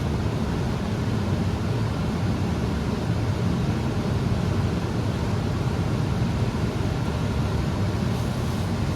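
Draft inducer motor of a Carrier 80% gas furnace running steadily with a low hum, the first stage of the furnace's start-up on a call for heat.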